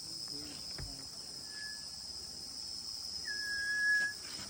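Steady high-pitched chorus of rainforest insects such as crickets, with a single held whistled note, the loudest sound, lasting just under a second about three seconds in.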